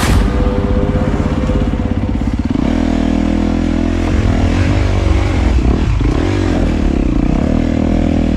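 Dirt bike engine running at low revs under throttle, its pitch rising and falling as the throttle is worked, with a change in tone about two and a half seconds in.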